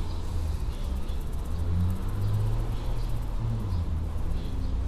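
Low, steady rumble of a motor vehicle's engine running, its hum shifting slightly in pitch about two seconds in.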